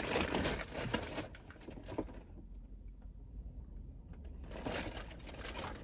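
Handling noise: rustling and small clicks as a small plastic car accessory and its packaging are handled, with a quieter pause in the middle.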